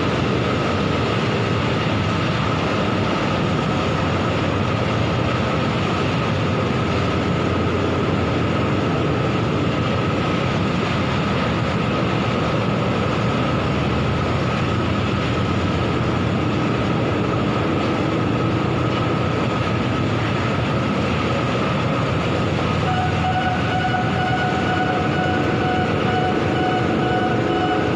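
Bucket-wheel stacker-reclaimer running: a steady, dense mechanical rumble and grinding with a held whine, and a further set of higher whining tones joining near the end.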